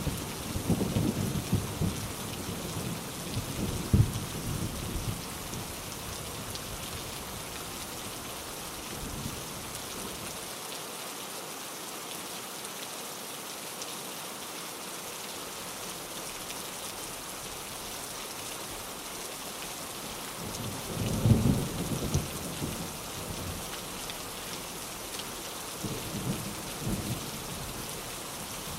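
Steady heavy rain hissing, with rolls of thunder rumbling low at the start, again more strongly about two-thirds of the way through, and once more faintly near the end.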